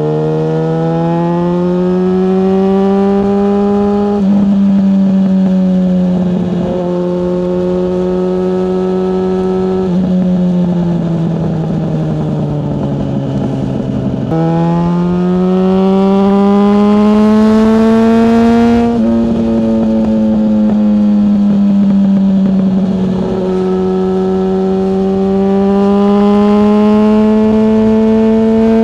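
Yamaha FZ6S motorcycle's 600cc inline-four engine under way, its pitch climbing under throttle and stepping down or jumping at several gear changes, then sinking as it slows. The engine is loud and close.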